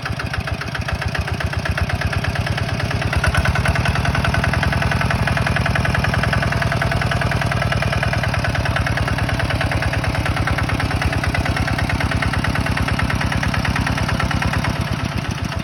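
Engine of a heavy machine running steadily, with rapid, even firing pulses, a little louder from about three seconds in.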